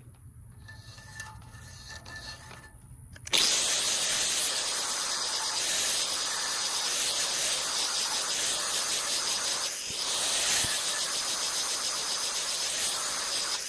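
Angle grinder with a grinding wheel grinding a steel lawn mower blade flat: a loud, steady hissing grind that starts abruptly a little over three seconds in, after a few quiet seconds.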